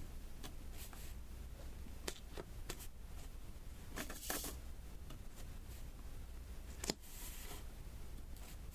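Diamond painting: small resin beads tapped one by one onto the sticky glue-covered canvas, a scatter of light clicks and taps. There is a short rustle about four seconds in, and the sharpest click comes near the end, followed by a brief hiss.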